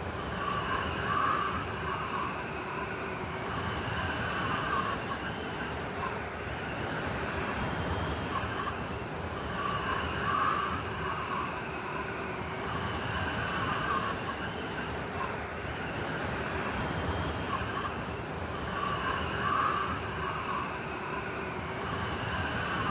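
Blizzard wind blowing steadily, with a wavering, howling whistle that swells in gusts about every nine seconds.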